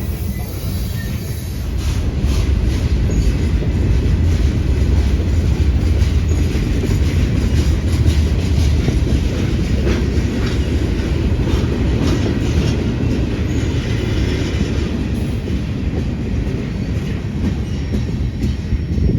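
Train rolling past close by: a steady heavy rumble, louder from about two seconds in, with the wheels clicking over the rail joints.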